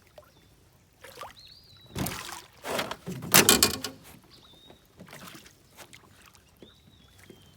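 Water splashing and knocking around a small fishing boat, loudest about two and three seconds in, with three faint high whistles that rise then hold.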